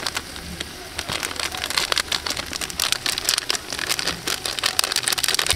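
Curry paste frying in hot oil in a metal pot: a steady sizzle with dense crackling and spitting.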